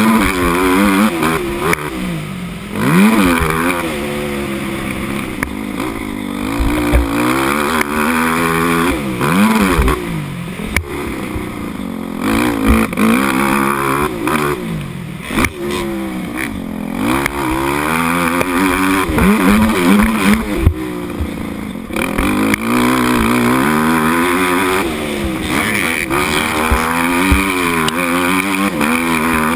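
Motocross bike engine at race pace, its pitch climbing and dropping again and again as it is revved hard, shifted and backed off.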